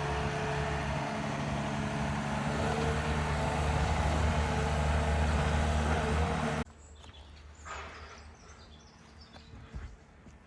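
A heavy machine's engine running steadily, a little louder in the middle. About two-thirds of the way through it cuts off abruptly, leaving quiet woodland with faint bird calls.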